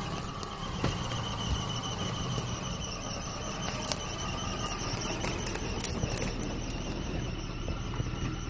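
Maruti Gypsy 4x4 engine running at low speed as it crawls down a rough dirt trail, with scattered sharp clicks and crackles and a faint steady high whine.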